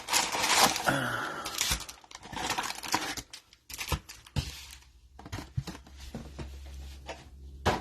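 Trading-card packaging being torn open and handled: bursts of tearing and crinkling of wrappers and cardboard in the first three seconds, then sparser handling clicks. A low hum sets in about halfway.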